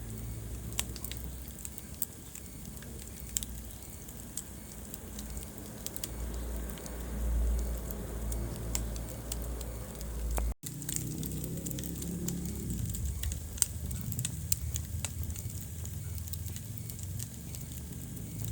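Wood fire crackling in a fireplace: scattered sharp pops and snaps over a low rumble of burning logs. The sound cuts out for a moment a little past halfway.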